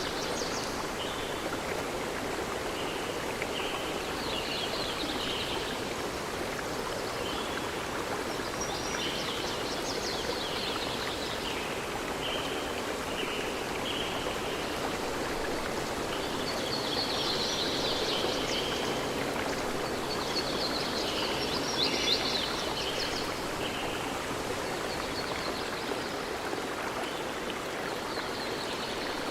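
Steady rushing of a stream, with songbirds chirping and trilling over it in repeated short phrases, busiest about two-thirds of the way through.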